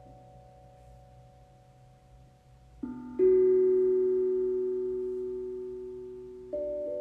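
Struck metal meditation instrument ringing: a faint fading ring, then two strikes about three seconds in whose clear tones ring out and slowly die away, and another note near the end.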